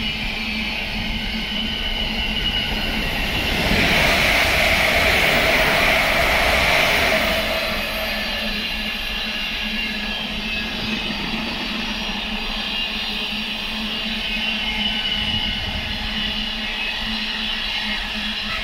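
Container freight train wagons rolling past on the rails: a steady wheel rumble with a low hum. It swells louder, with a hissing edge, for a few seconds from about four seconds in, then settles back.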